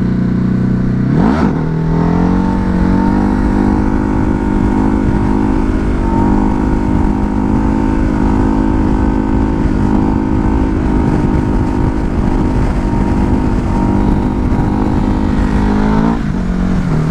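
Ducati Hypermotard's V-twin engine revs up sharply about a second in, then runs at a steady cruising speed, and drops off near the end as the throttle eases. Strong wind buffets the microphone throughout.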